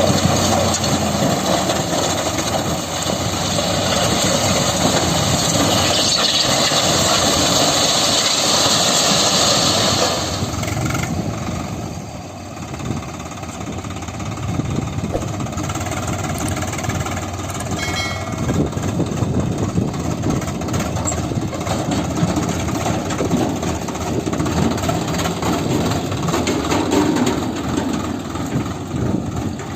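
Heavy diesel engine running under load. It is loud and rough with a hissing edge for about ten seconds, then eases to a quieter, steady run.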